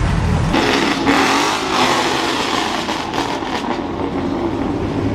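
A modified car's engine accelerating hard, the exhaust note rising and getting louder about half a second in, after a low rumble.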